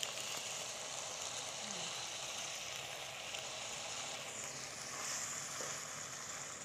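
Steady hiss of chicken pieces sizzling in hot oil and fried ginger-garlic paste in a kadhai, as the chicken is added and stirred, swelling slightly about five seconds in.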